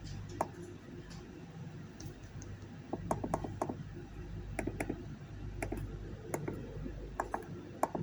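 Buttons on a fan inverter's keypad being pressed to set a parameter value: short clicks, some single and some in quick runs of three or four, over a faint steady low hum.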